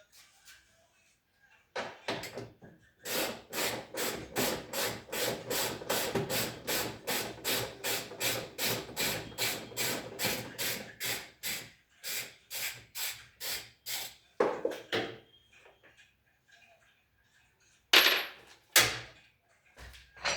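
Hammer blows struck in a steady run, about three a second for some ten seconds, then a few single heavier strikes near the end.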